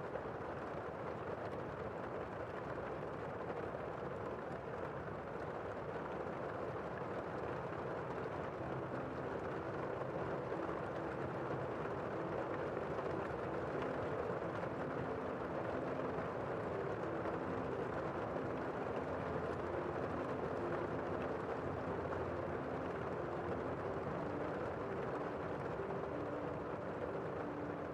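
Steady rain falling, heard muffled as if through a window, a dense even hiss without distinct drops. From about nine seconds in, faint low tones come and go under it.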